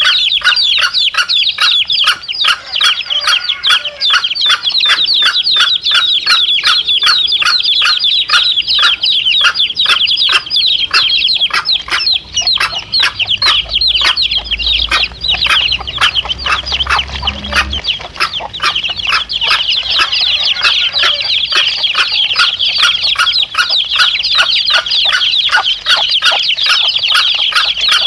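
A brood of chicks cheeping continuously in a dense chorus of high peeps, with a mother hen clucking in a quick, regular rhythm, used as a lure call for wild junglefowl.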